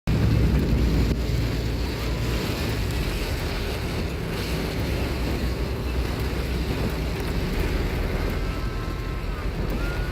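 Steady rushing noise of heavy rain and floodwater, with wind buffeting the microphone as a low rumble, a little louder in the first second.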